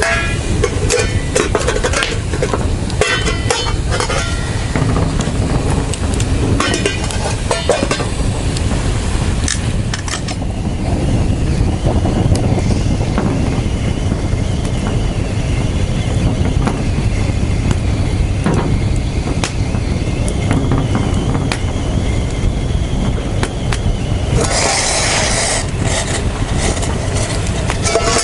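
Bonfire of dead leaves and dry twigs crackling, with many sharp pops over the first ten seconds or so over a steady low rumble, and a louder hissing rush about 25 seconds in.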